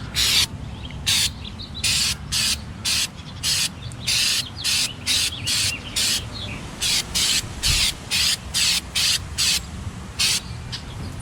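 Aerosol can of Flex Seal rubber sealant spraying in short hissing bursts, about two a second, along the seams of an aluminum boat.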